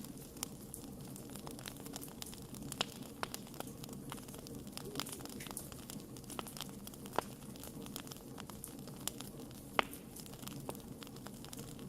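Wood fire crackling: irregular sharp pops and snaps over a steady low hiss, with a few louder pops.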